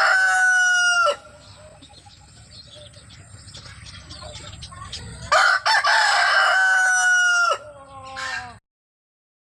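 A chicken crowing: a long call ends about a second in, a second full crow follows about five seconds in, and a short falling call comes near the end before the sound cuts off.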